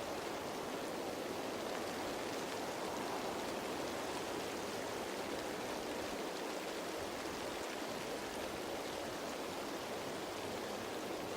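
Steady rain falling on leaves, an even hiss with no single drop standing out.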